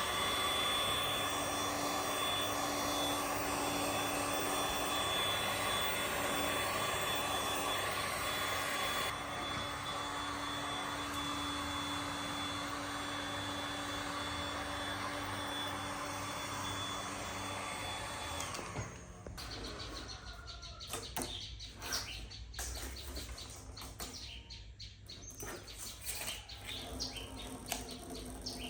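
A machine running steadily with a high whine, which stops abruptly about two-thirds of the way in. After that come bird chirps and scattered light ticks.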